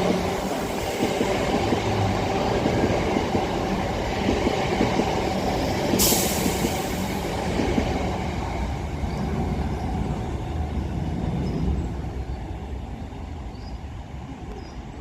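Two coupled Class 323 electric multiple units running slowly through the station, a steady rumble of the passing train. A short hiss comes about six seconds in, and the sound fades over the last few seconds as the train moves away.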